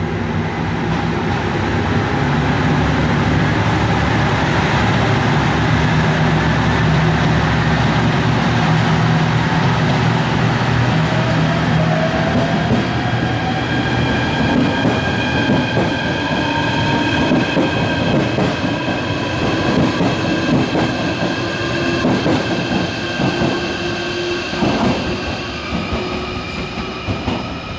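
A train running: a steady low drone at first, then a rising whine from about twelve seconds in, with rail rattling toward the end.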